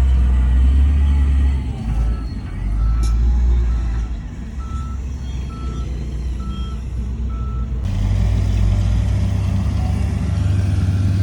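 Diesel engine of heavy earthmoving equipment running, with a backup alarm beeping evenly at one pitch for several seconds. About eight seconds in, the sound cuts abruptly to a steadier engine drone.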